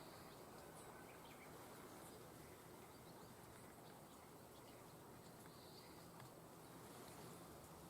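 Near silence: room tone with a few faint, scattered light ticks.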